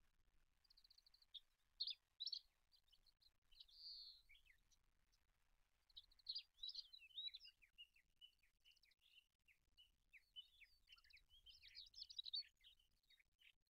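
Olive-backed pipit singing high, thin phrases of trills and chirps, a few short ones with pauses between, then a longer, quicker run of varied notes from about halfway on.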